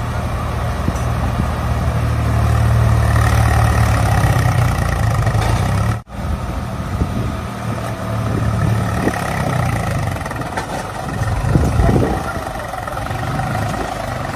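Diesel engine of a heavy vehicle running steadily, with a low, even engine note that swells slightly a couple of seconds in and breaks off for an instant about six seconds in.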